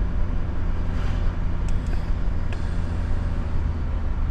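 A vehicle driving along: a steady low engine and road rumble.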